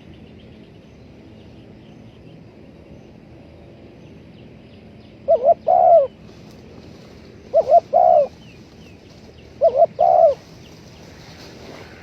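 Spotted dove cooing: three phrases about two seconds apart, starting about five seconds in, each two short notes followed by a longer note. Faint chirping of small birds runs underneath.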